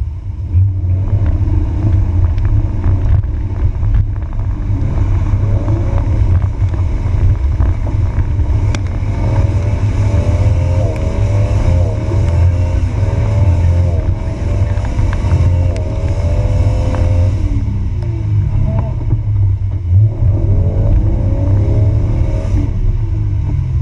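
Jeep Wrangler TJ engine, heard close through the hood, running hard under load on a steep climb, with a heavy low rumble. Through the middle its revs repeatedly climb and drop.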